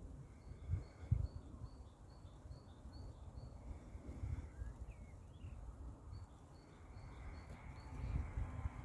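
Outdoor ambience: a low, uneven rumble of noise with a few soft thumps, and above it a small bird repeating a short high chirp about three times a second, in two runs with a pause around the middle.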